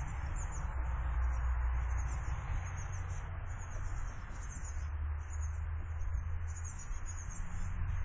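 High, thin bird chirps coming in short runs again and again, over a steady hiss and a low rumble.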